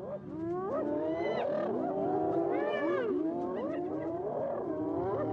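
A group of spotted hyenas calling together: many overlapping cries sliding up and down in pitch.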